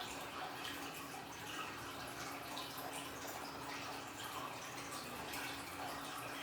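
Water trickling and splashing steadily from a small aquarium waterfall, with many small drips and a faint steady hum underneath.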